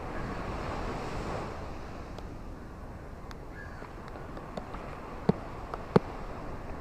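Ocean waves washing ashore: one wave swells over the first second or so, then eases into a steady wash. Scattered sharp clicks come in the second half, two of them loud, about a second apart.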